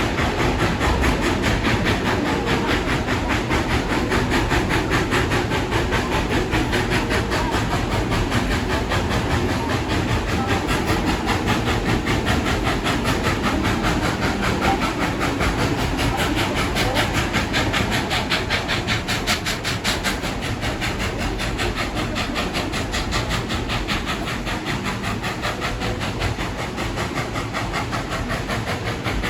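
Tweetsie Railroad No. 12, a narrow-gauge 4-6-0 steam locomotive, running with its train: a steady fast rhythm of clattering wheels and working steam with hiss, without a break.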